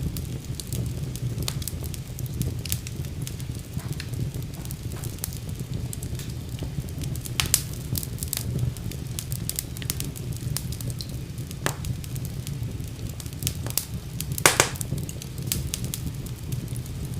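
Wood fire burning in a fireplace: a steady low rumble of flames with frequent sharp crackles and pops, the loudest pop about three quarters of the way through.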